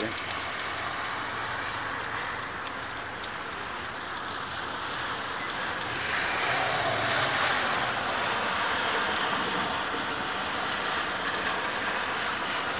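Steady heavy rain, with a car's tyres hissing through floodwater on the road; the sound swells about halfway through as the car comes closer.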